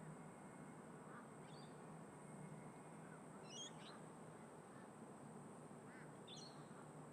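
Faint bird calls, a few short ones spaced a couple of seconds apart, over a steady low background hum of distant traffic.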